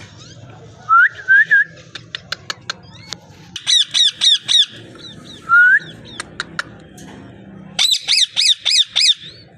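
Parrot calling: short rising whistles and two quick runs of repeated squawking calls, five in the first run and six near the end, with sharp clicks in between.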